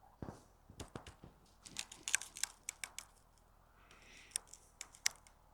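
Irregular light clicks and taps, with a short faint scraping hiss about four seconds in.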